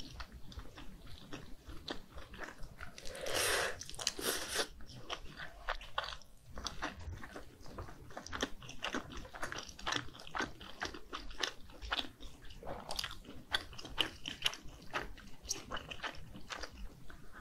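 Close-miked mouth sounds of biting and chewing soft, sauce-coated fish cake: a dense run of wet clicks and smacks, with a louder, longer mouth noise about three and a half seconds in.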